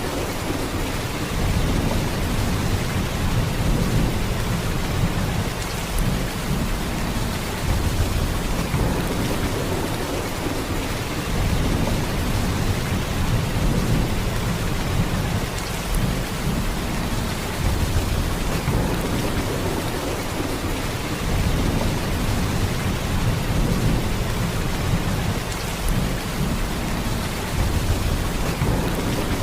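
Heavy rain falling in a steady downpour, with a deep low rumble in it that swells and eases every few seconds.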